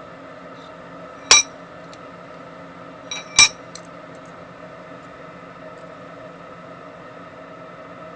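Two sharp metal-on-metal strikes about two seconds apart, each ringing briefly, with a lighter click just before the second. A steady hum runs underneath.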